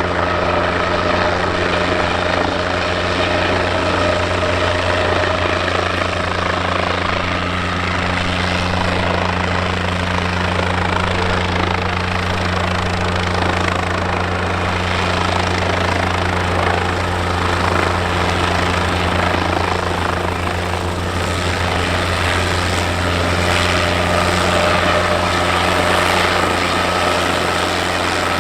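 Guimbal Cabri G2 helicopter running, its rotor and Lycoming O-360 piston engine making a steady, loud drone. A faint higher whine fades in the middle and comes back near the end.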